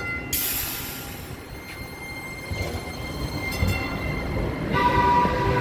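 DART light rail train pulling out of the station. A sudden hiss of air comes about a third of a second in and fades over about a second, and a louder tone starts near the end, with the noise of wind on the microphone underneath.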